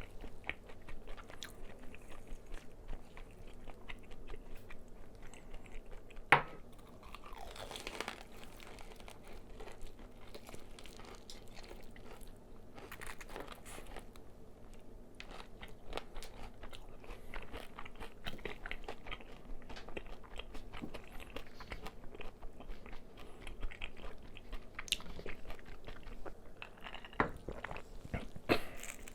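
Close-miked bites and chewing of crispy fried chicken: crackly crunches of the fried coating between steady chewing, with one especially sharp, loud crunch about six seconds in.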